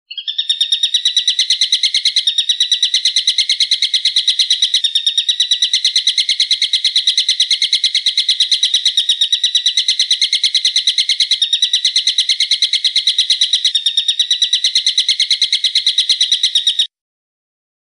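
Bird call recording: a rapid, shrill series of sharp repeated notes, about eight a second, held without a pause for some sixteen seconds and then cut off abruptly, looped as a masteran track for training cage songbirds.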